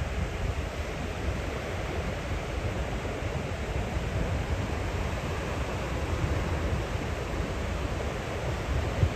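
Ocean surf washing steadily onto the beach, with a continuous rush and wind rumbling on the microphone.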